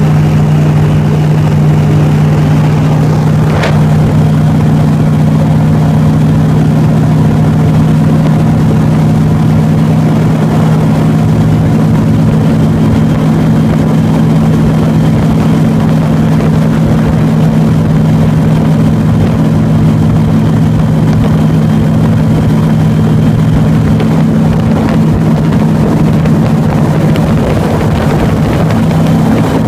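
Airboat's engine and air propeller running steadily while under way: a loud, constant drone.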